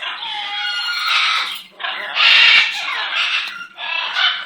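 Pet parrot calling: a run of about four drawn-out calls, the loudest about two seconds in.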